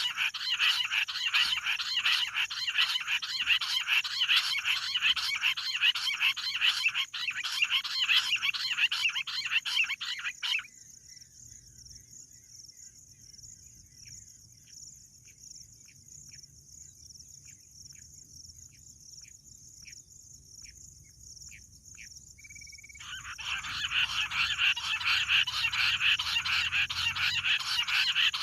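Bush quail calling in a dense, rapid chattering chorus that cuts off abruptly about ten seconds in. A run of short single notes, about two a second, follows before the full chorus starts again near the end.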